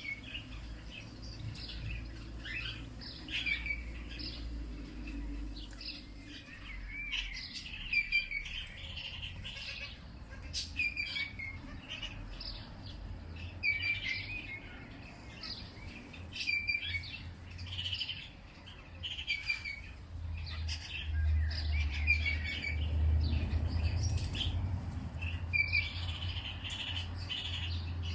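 Wild songbirds chirping in short, repeated phrases every second or two, over a low rumble that grows louder in the second half.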